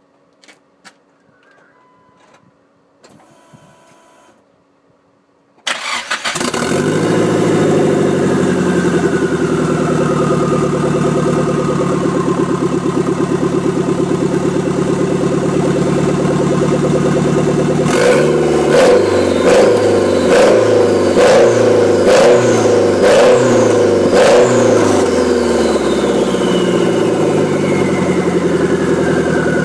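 Turbocharged engine with a Tomei exhaust manifold, exhausting straight out of the turbine outlet with no front pipe or catalyst, starting about six seconds in and running at a loud, steady idle. From about eighteen seconds it is blipped about seven times in quick succession, then returns to idle as a whistle falls in pitch.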